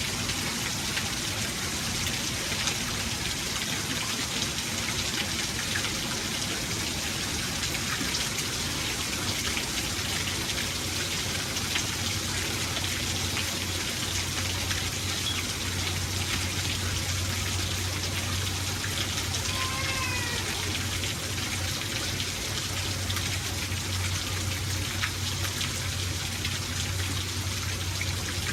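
Steady rain falling, with the patter of individual drops striking a surface. A low steady rumble joins about a third of the way through, and a brief wavering pitched call sounds about two-thirds in.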